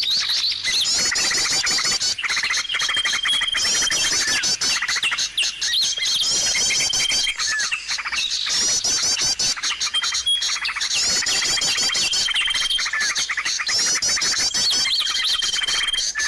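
Many small songbirds chirping, trilling and chattering at once, a bird-lure mix made to draw small birds in. A long, high, steady whistle returns every few seconds among the busy chirps, in a pattern that repeats.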